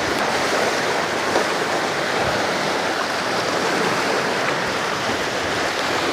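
Sea waves washing at the shore, a steady rush of surf.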